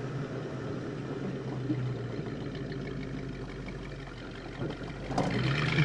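1971 Plymouth Road Runner's 383 V8 running steadily on the move, heard from inside the car. About five seconds in there is a short knock, and the engine grows louder.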